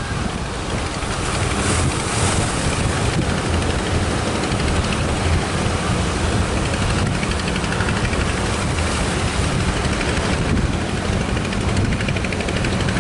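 Strong wind rumbling on the microphone at sea, over waves and the steady running of a boat's motor.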